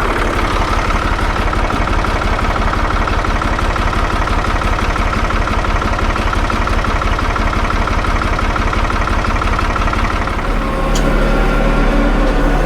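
Tractor engine running steadily. About ten seconds in, its note shifts and grows a little louder, and there is one brief click.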